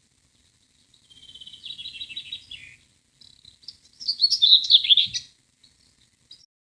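Two phrases of songbird calls. The first, about a second in, is a quick run of repeated high notes. The louder second phrase is a jumble of rapid chirps.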